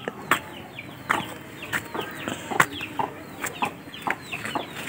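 Birds chirping in many short, falling calls, with a few sharp clicks among them.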